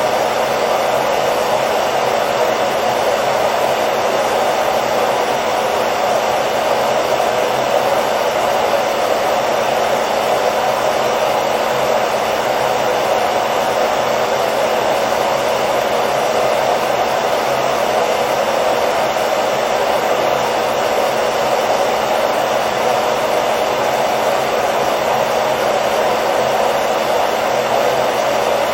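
Hair dryer running steadily: a constant, even whoosh of blown air with a faint motor hum.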